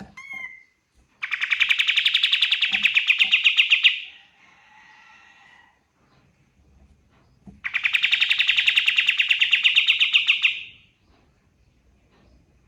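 Pied triller (kapas tembak) singing: two long, rapid trills of about three seconds each, with a short chirp just before the first and a fainter call between them.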